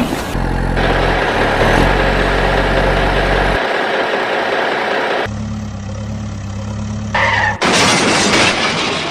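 Truck engine running at a steady idle, broken into several segments that switch abruptly from one to the next, like spliced engine sound clips.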